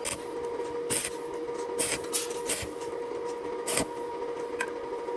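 Irregular sharp clicks and knocks of hand work on engine parts, about seven in five seconds, over a steady hum.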